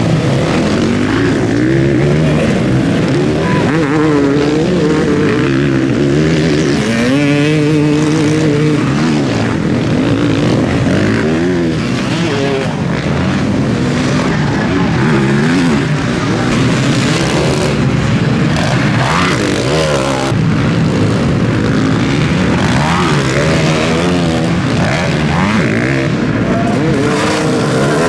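Several motocross bikes racing, their engines revving up and down at once, so that many rising and falling engine pitches overlap.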